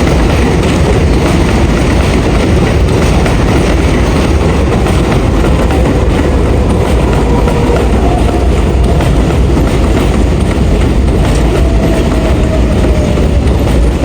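R142A subway train running at speed between stations: a loud, steady rumble of wheels on rail, with faint whining tones drifting in pitch.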